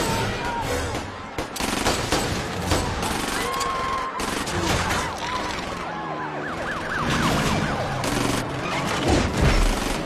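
Dense action-film car-chase soundtrack: bursts of gunfire and crashing impacts over a wailing siren and the rumble of engines, with film score underneath.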